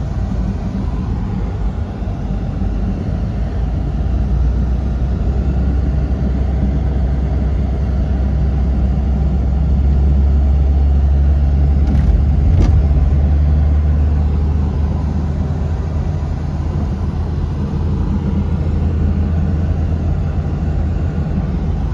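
Tour vehicle driving along, a steady engine and road rumble that swells to its loudest in the middle, with two short clicks around the midpoint.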